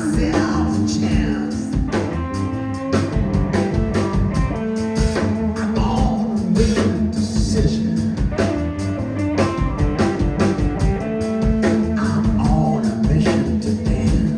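Live rock band playing an instrumental passage between sung lines, with guitar and drum kit.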